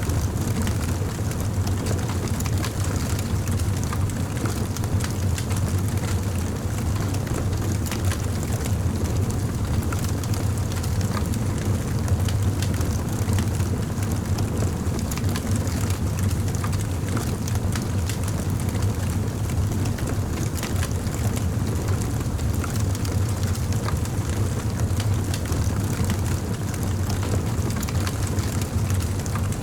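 Campfire burning: a steady low rumble from the flames with frequent small crackles and pops of the burning wood.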